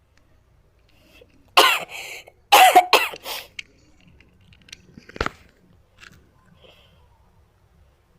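A person coughs several times in two short fits, then a single sharp knock comes about five seconds in.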